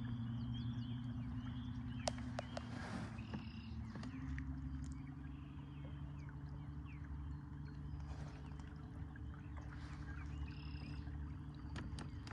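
Newport Vessels 36 lb-thrust electric trolling motor running steadily with a hum, its pitch stepping up slightly about four seconds in. Faint high chirping calls come and go in the background.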